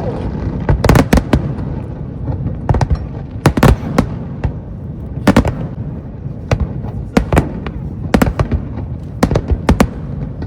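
Aerial fireworks shells bursting overhead: sharp cracks, often several in a quick cluster, recurring every second or so, over a steady low rumble.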